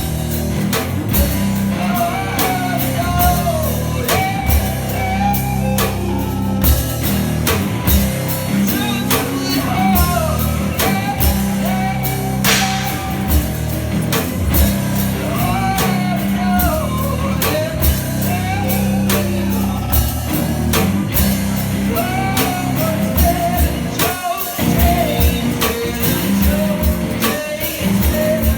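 Live rock music from a one-man band: guitar over a steady kick-drum beat and cymbal hits, with a wavering melody line on top.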